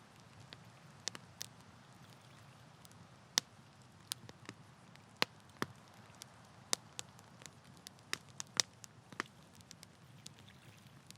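Campfire crackling: wood burning with irregular sharp pops and snaps over a low steady rumble.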